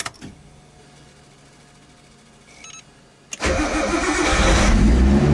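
A click, a few seconds of quiet, then about three and a half seconds in a motor vehicle engine starts suddenly and runs loudly.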